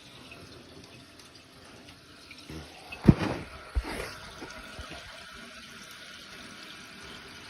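Toilet tank refilling through a newly installed fill valve: a steady hiss of running water. Two sharp knocks come about three and four seconds in.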